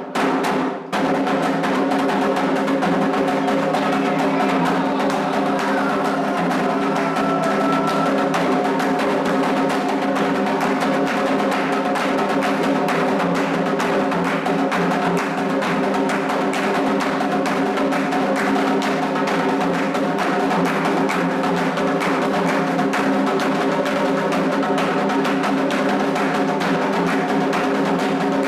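Candomblé atabaque hand drums playing a continuous, steady-level toque for the orixá Ewá, with a struck percussion instrument keeping time over the drums.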